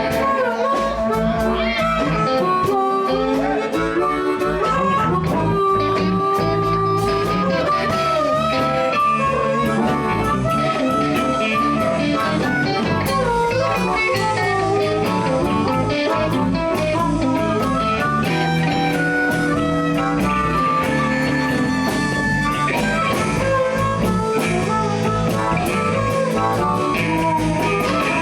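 A live blues band plays an instrumental passage: guitar, bass and drum kit, with a harmonica carrying bending lead lines on top.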